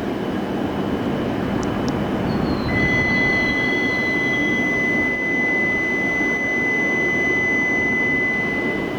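Shinkansen train running past on the station tracks, a steady rumble. About three seconds in a high, steady whine joins it and holds until near the end.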